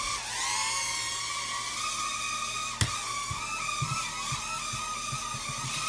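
Toy helicopter's small electric rotor motor whining at a high, steady pitch, which dips briefly just after the start and then recovers. A single sharp knock comes about three seconds in.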